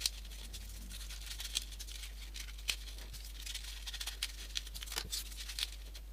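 Faint, irregular rustling and small clicks of folded paper 3D-origami pieces being slotted into the model, over a low steady hum.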